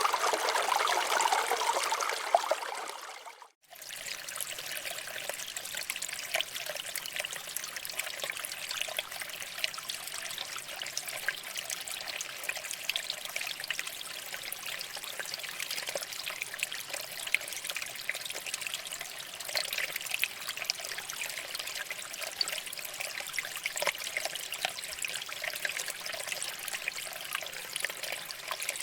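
Shallow water flowing and trickling over rocks, with many small splashes. About three seconds in it fades almost to nothing for a moment, then returns quieter and lighter as a fine, steady trickle.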